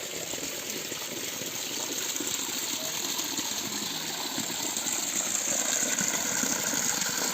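Steady rushing noise, growing a little louder toward the end.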